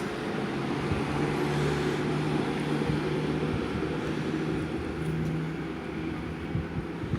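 Steady low motor hum with a few held tones, over outdoor street noise.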